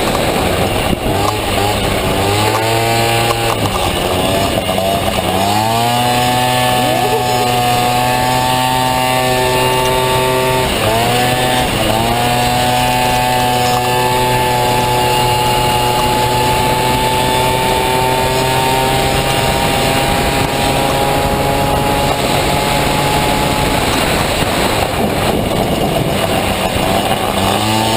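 Honda Motocompo fitted with a Honda Dio two-stroke scooter engine, running at high revs. The revs drop briefly and climb back several times: about 2, 4 and 11 seconds in, and again near the end. In between, a long stretch of steady high revs slowly creeps higher.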